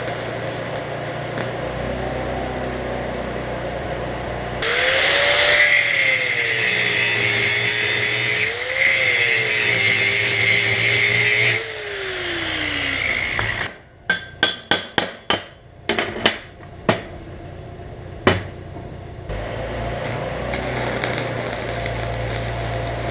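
Angle grinder working steel for about seven seconds, its pitch wavering under load, then spinning down with a falling whine. Then a run of sharp knocks over several seconds, with a steady low hum before the grinding and after the knocks.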